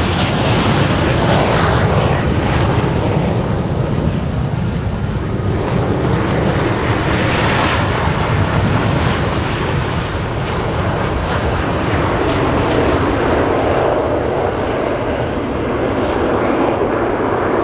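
Loud, continuous jet noise from a formation of Hongdu L-15 jet trainers flying overhead, swelling and easing slightly as they move.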